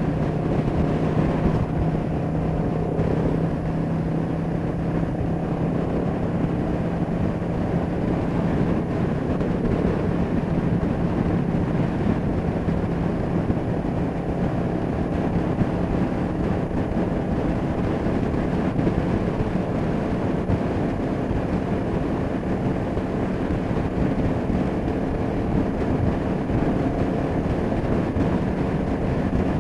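Kawasaki EN500 Vulcan's parallel-twin engine running at a steady cruise while riding, its note holding at an even pitch, with wind rushing over the camera microphone.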